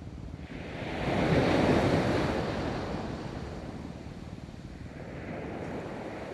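Ocean waves rolling onto a beach: a wave breaks about a second in, is loudest around two seconds, then washes out slowly; a smaller wave swells up near the end.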